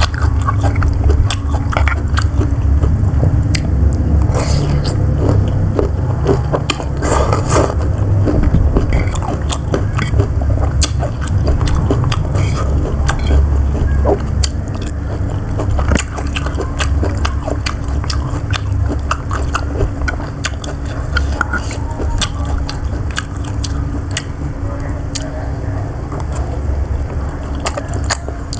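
Close-miked chewing and biting while eating siomay, with frequent irregular wet mouth clicks and smacks. A steady low rumble runs underneath.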